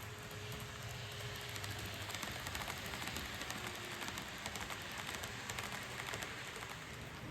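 N gauge model train running along the track: a steady hiss with rapid fine clicking from the wheels and pickups on the rails, busiest in the middle.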